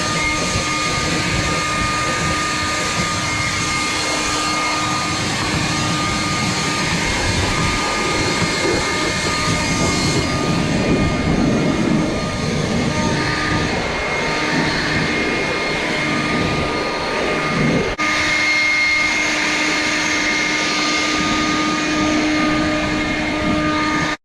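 Ford Jubilee tractor engine running steadily at work, driving a grain elevator, with a steady mechanical hum and whine over the engine's rumble. The sound changes abruptly twice, about ten and eighteen seconds in.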